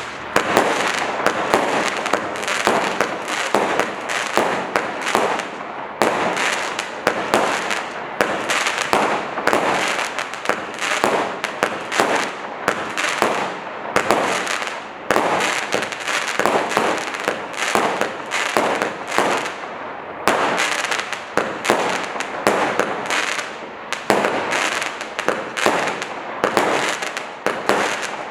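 Black Cat Kaboom Roman candle firework cake firing: a dense, continuous stream of crackling and sharp pops from crackle mines and aerial bursts. It dips briefly and surges again about six, fourteen and twenty seconds in.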